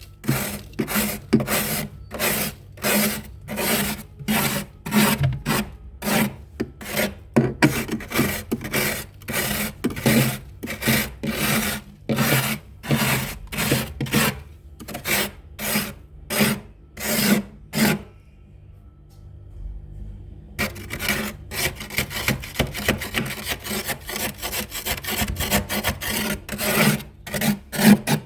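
Scraping built-up frost and ice off the inside of a freezer, in repeated strokes about two a second. The scraping stops for a couple of seconds past the middle, then resumes with quicker, closer strokes.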